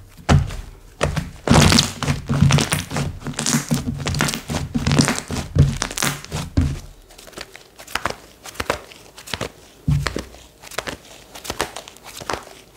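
Hands squeezing and pressing slime: an irregular run of sticky clicks, crackles and soft thunks.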